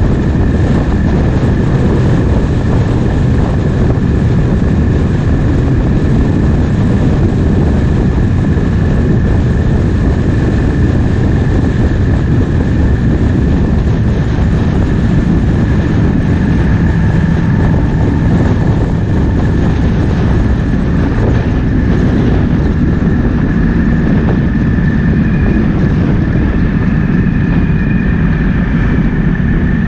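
Triumph Speed Twin 1200's 1200 cc parallel-twin engine running steadily while riding, mixed with heavy wind noise on the microphone and a steady high whine.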